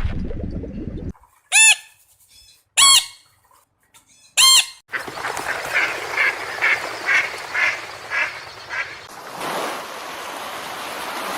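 Waterfowl calling: three loud, separate honks about a second and a half apart, then a quicker run of about nine fainter calls, followed by an even hiss.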